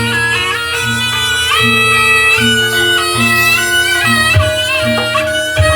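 Barongan accompaniment music: a reedy shawm plays a wavering, ornamented melody over a steady, repeating low beat.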